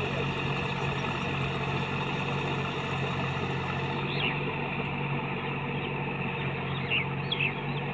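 Deutz-Fahr Agrolux 50 tractor's diesel engine running at a steady speed, an even low hum that does not change.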